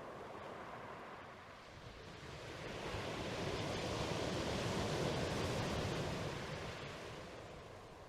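Ocean surf: a rushing wash of noise that builds, peaks about five seconds in, and slowly fades like a wave breaking and drawing back.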